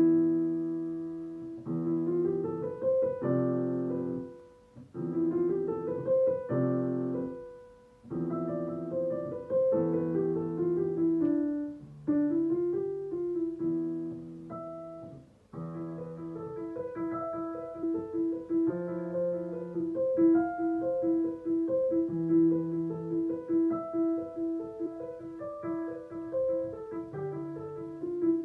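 Solo piano playing a song melody over low chords. From about halfway through, one mid-range note is struck over and over at a steady pulse, a little under twice a second, beneath the melody.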